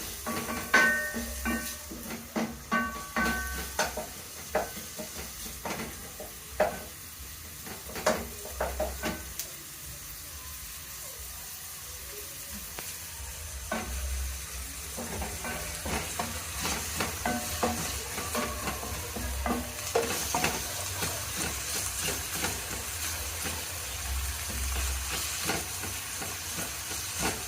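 Chopped onion sizzling in a little hot oil in a pot while being stirred, the spoon knocking and scraping against the pot with frequent clanks, some ringing briefly. The knocks are thickest in the first ten seconds; the sizzle grows fuller about halfway through.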